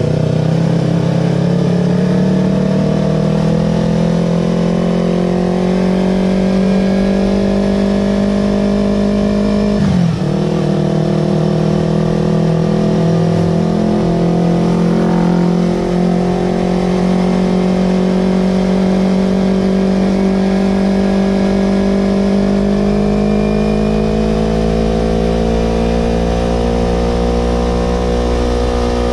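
Yamaha R25's 250 cc parallel-twin engine running through an aftermarket Villan Pro 2 exhaust, holding steady revs with the pitch slowly climbing. The note drops sharply for a moment about ten seconds in, then recovers and keeps rising.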